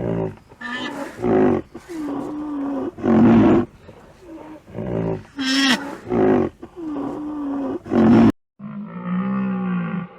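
An animal calling over and over in short, loud, rough calls about a second apart. Just after eight seconds in it cuts off abruptly and a different animal's long, drawn-out call begins.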